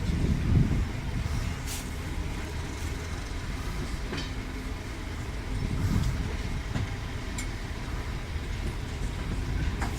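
Train hauled by Class 31 diesel locomotive 31271 running on the line: a steady low rumble that swells a little now and then, with a few sharp clicks scattered through it.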